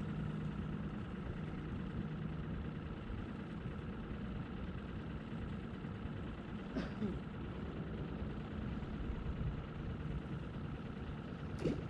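A motor idling steadily, its low hum fading after about three seconds, with a couple of faint clicks later on.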